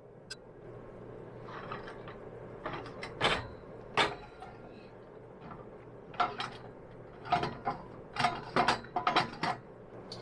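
Irregular metallic clicks and clanks of hand tools and exhaust parts being handled while a Harley FXR muffler is fitted, with a quicker run of clicks in the second half.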